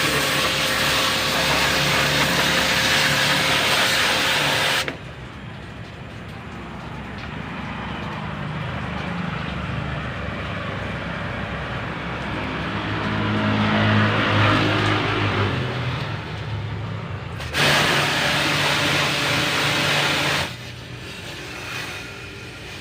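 High-pressure water jet spraying the condenser coil of a split air conditioner's outdoor unit, in two spells that stop abruptly, the first about five seconds in and the second about three seconds later. Between them a lower, steadier hum from the washer.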